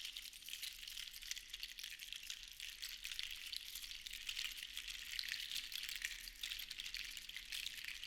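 Seashells shaken together in a continuous dense rattle of tiny clicks, swelling and easing in waves.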